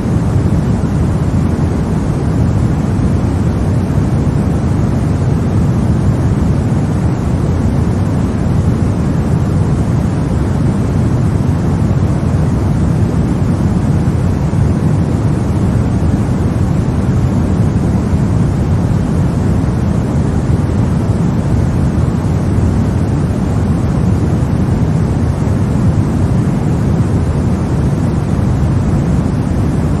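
Steady sleep-aid white noise: an even, unchanging rush with most of its weight in the low range and no tones or breaks.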